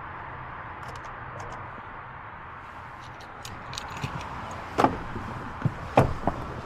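Several sharp clicks and knocks over a steady low background hum, the loudest a pair of knocks about five and six seconds in.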